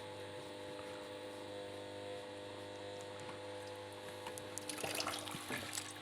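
Washing machine water inlet solenoid valve humming steadily, the loud valve noise being diagnosed as a fault. A short burst of crackling, rushing noise comes in near the end.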